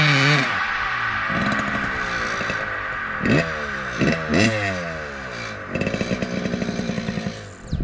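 Motorcycle engine running, with two or three quick throttle blips about three to four seconds in, then a stretch of fast, steady pulsing at higher revs near the end.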